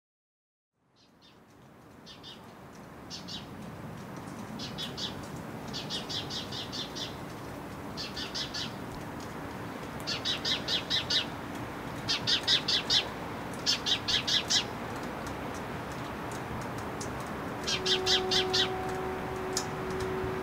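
Birds chirping in short, rapid trills, repeated every second or two over a steady street background that fades in after a second of silence. Near the end a steady low hum joins in.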